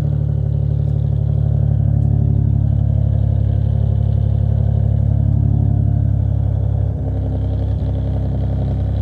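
Nissan VQ V6 engine running steadily with an even note, running right now that the misfire has been cured by replacing a cracked bank 1 VVT solenoid and the flex pipe is repaired.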